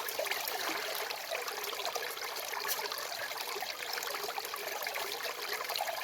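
Running water, a steady rushing hiss like a flowing stream.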